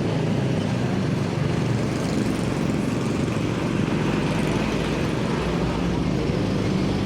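A steady low rumbling noise, even throughout, with no distinct strokes or changes.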